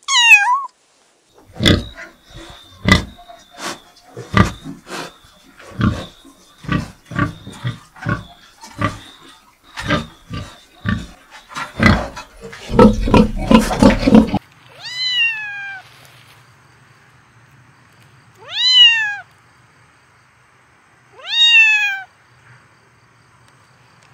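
A kitten's meow ends just as the sound begins. It is followed by a long run of short grunts from a pig, about two a second, that close in a dense burst of rapid grunting. Then a kitten meows three times, each a single falling cry, a few seconds apart.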